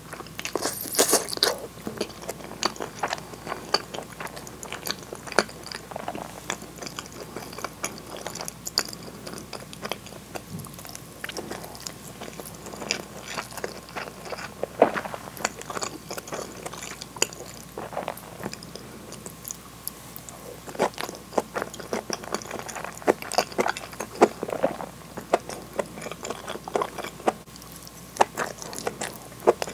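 Close-miked mouth sounds of someone chewing mouthfuls of sauced hamburg steak and rice: wet smacks and sticky clicks. The chewing goes on irregularly, with louder bursts about a second in and again through the second half.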